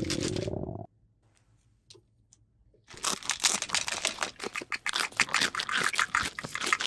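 Rapid clicking and crinkling of plastic toy pieces and packaging being handled, stopping for about two seconds after the first second and then starting again.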